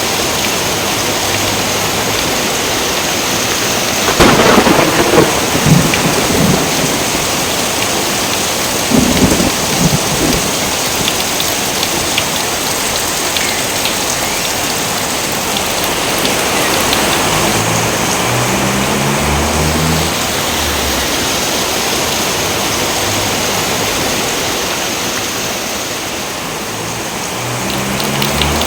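Steady heavy rain with thunder: a loud crackling thunderclap about four seconds in that rumbles on for a couple of seconds, and a shorter one about nine seconds in.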